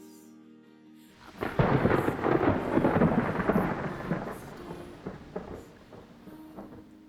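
A thunderclap about a second in, followed by thunder that rolls on and slowly dies away over the next several seconds.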